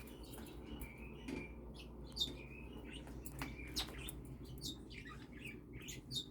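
Pet parrots, a cockatiel and a superb parrot, giving quiet, scattered short chirps and squeaks. A few louder calls come about two seconds in, around four seconds in, and near the end.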